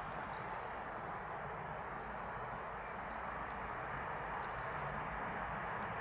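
Cricket chirping in short, evenly spaced groups of high pulses, over a steady rushing background noise that grows slightly louder.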